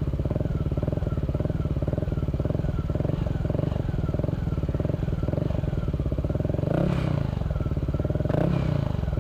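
Yamaha Aerox 155 scooter's single-cylinder engine idling through a Villan SR1 aftermarket exhaust with a steady, fast pulsing beat while it warms up. The engine briefly rises twice near the end as the throttle is blipped.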